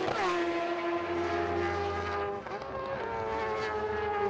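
Superbike racing motorcycle engines running at high revs: a steady, high-pitched engine drone whose pitch sags slightly a couple of times.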